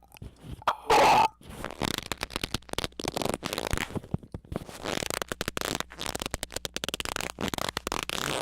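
A short, loud squeak about a second in, followed by rapid, irregular crackling and scraping clicks.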